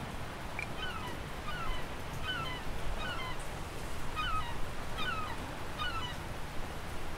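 A bird calling outdoors: a string of about eight short calls, roughly one every two-thirds of a second, over a steady low rumble.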